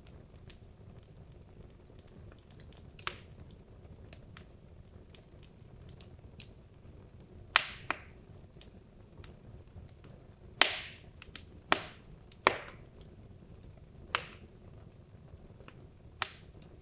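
Wood logs burning in a fireplace: irregular sharp crackles and snaps, with several louder pops scattered through, over a faint low rush of the flames.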